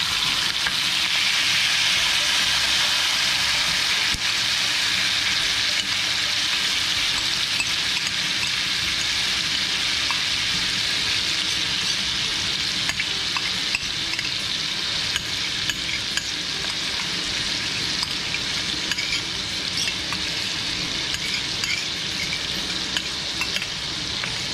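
Chicken leg pieces sizzling in shallow oil on a tawa griddle as a yogurt and spice marinade is poured over them: a steady hiss with scattered small crackles, loudest in the first few seconds.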